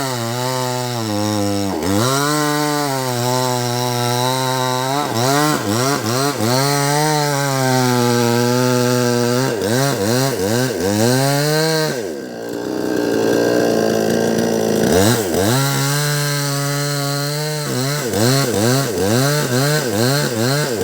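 Two-stroke chainsaw running at high revs, its engine pitch repeatedly dropping and climbing back. About twelve seconds in the pitch sinks low and goes rough for a few seconds, then revs back up.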